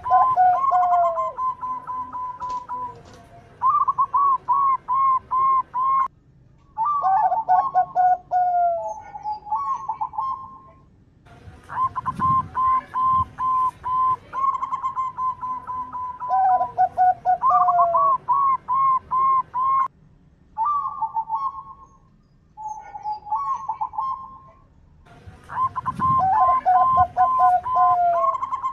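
Zebra doves (perkutut) cooing: phrases of quick rolling coos held around one pitch, some stepping down lower, at times overlapping one another. The phrases break off abruptly several times, and the same sequence comes round again about every fourteen seconds.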